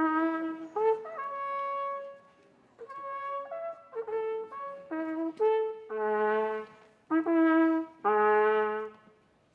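A brass fanfare: a short melody of held notes played on trumpet-like brass. A lower note joins beneath the last two long notes, and the fanfare ends a little before the narration begins.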